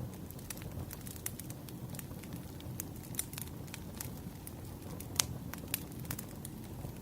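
Campfire burning, a low steady rumble with irregular crackles and pops of the wood, one sharper pop about five seconds in.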